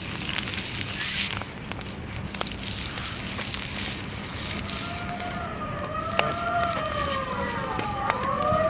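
Wood campfire crackling with a hissing sizzle of chicken grilling on a cast-iron plate. From about halfway, a siren wails in, its pitch slowly rising and falling.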